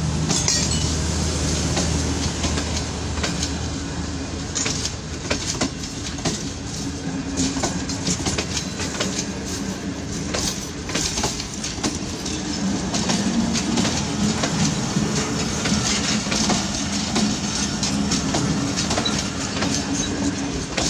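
Passenger coaches of a departing train rolling past at close range, with wheels clicking over rail joints and metallic clinks over a continuous rumble. A low hum from the passing power van's generator fades in the first couple of seconds.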